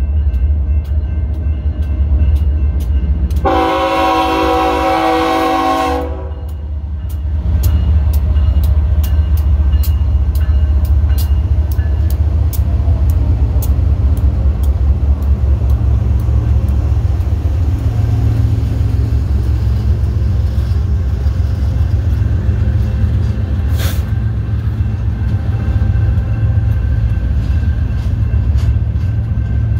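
BNSF diesel locomotives hauling an intermodal train: a steady low engine rumble, with one horn blast of about two and a half seconds a few seconds in. After the horn, rapid clicks of wheels on the rails ride over the rumble.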